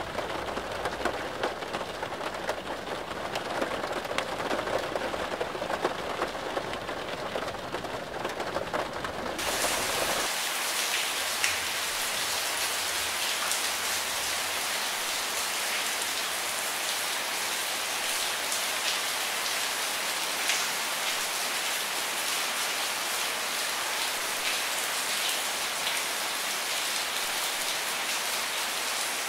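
Rain falling, with individual drops pattering on a surface. About ten seconds in it changes abruptly from a fuller, lower patter to a brighter, steady hiss of rain.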